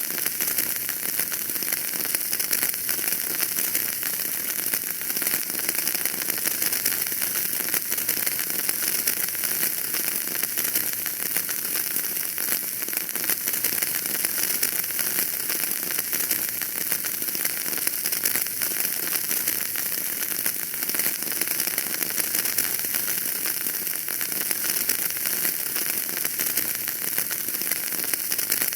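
Wood fire burning in a fireplace: dense, steady crackling and popping over a hiss.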